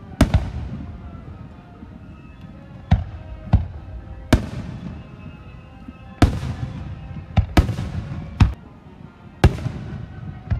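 Fireworks shells bursting in a display, about nine sharp bangs at uneven intervals, each trailing off for a second or so before the next.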